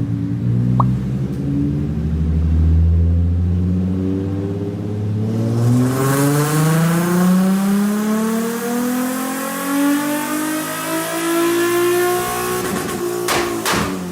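Nissan 370Z's 3.7-litre V6 running at low revs, then pulling hard with its pitch climbing steadily for about eight seconds under acceleration, a rush of noise rising with it. A few sharp cracks come near the end.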